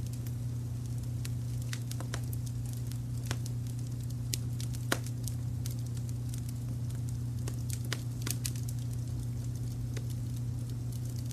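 Wood fire crackling, with scattered sharp pops at irregular moments, the loudest about five seconds in, over a steady low rumble of brown noise.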